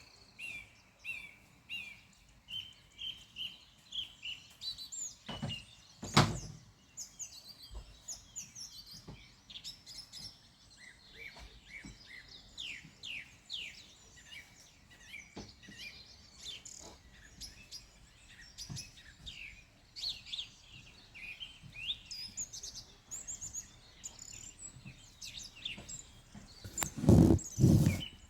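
Several wild birds singing and chirping in quick short phrases, with a sharp thump about six seconds in and a loud low rumble near the end.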